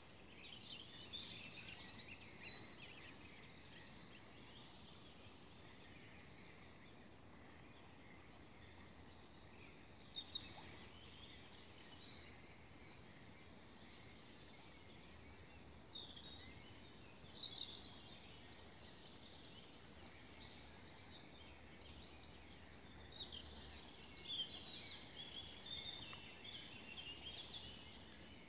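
Songbirds calling faintly in four short spells of high chirps, the busiest near the end, over a steady low background hiss.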